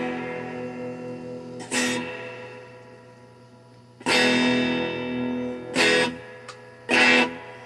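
Electric guitar, a DIY Telecaster-style kit guitar played through an amplifier: chords strummed one at a time and left to ring out, the loudest about four seconds in.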